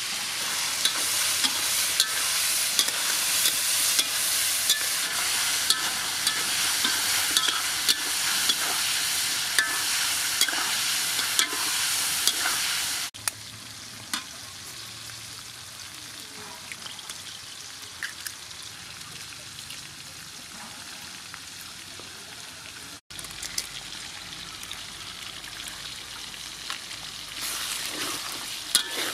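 Meat and chilies sizzling in an aluminium wok, with a metal spatula scraping and clicking against the pan as it stirs. The sizzle is loud at first and drops suddenly about thirteen seconds in, then picks up again near the end.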